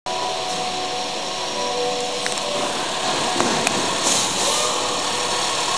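2001 Subaru Outback's 3.0-litre flat-six engine running steadily, with a thin high whine above it and a few faint clicks.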